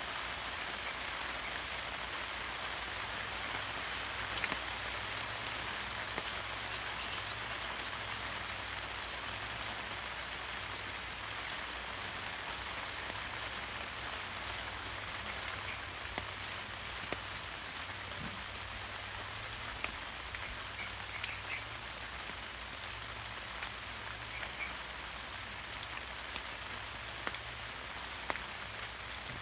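Steady rain falling, with scattered drops ticking sharply on nearby surfaces. A few faint short chirps sound here and there.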